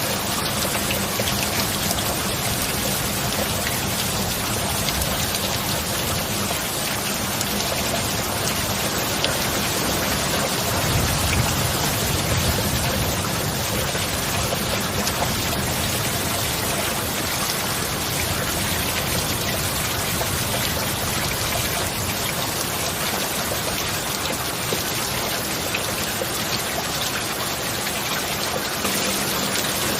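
Steady heavy rain, a dense even hiss of drops. A low rumble of distant thunder swells about ten seconds in and fades a few seconds later.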